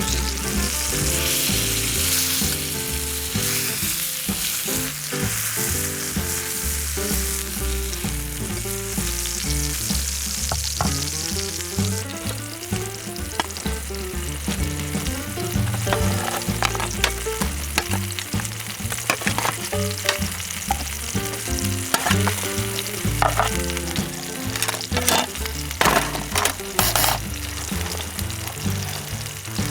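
Food frying and sizzling in a pan, with sharp clicks and scrapes of a utensil stirring or turning it, more frequent in the second half.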